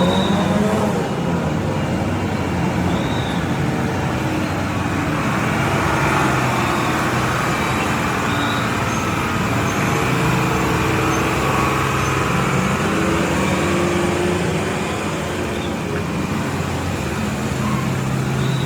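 Heavy truck's diesel engine running amid road traffic noise, its pitch drifting slowly up and down, with a few short high-pitched tones now and then.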